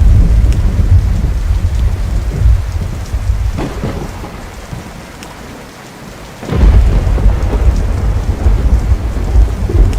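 Thunder rumbling over steady rain. The rumble slowly dies away, then a sharp new thunderclap about six and a half seconds in sets off another long, deep rumble.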